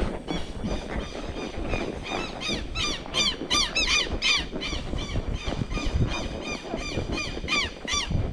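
A bird calling in a rapid series of short, repeated arched notes, about three a second, loudest in the middle. Underneath are the irregular low thuds and rustling of a horse walking a forest trail.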